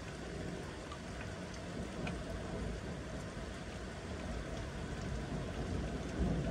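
Steady rain falling during a thunderstorm, with a few faint drop ticks. A low rumble underneath swells a little near the end.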